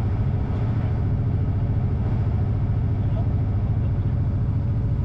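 A vehicle engine running steadily, a low, even drone with a fast flutter and no change in speed.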